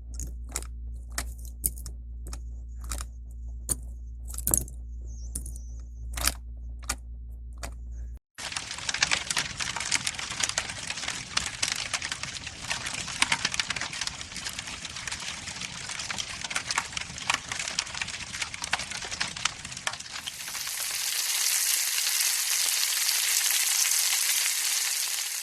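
Hard plastic toy pieces clicking as they are handled over a low steady hum. From about 8 seconds in, a dense campfire-like crackling takes over, changing near the end into a smoother, louder high hiss.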